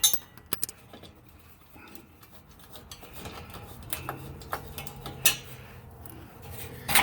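Irregular light metallic clicks and clinks of a wrench working the nuts and bolts that hold a skid plate to the tractor's frame, with a faint low hum in the second half.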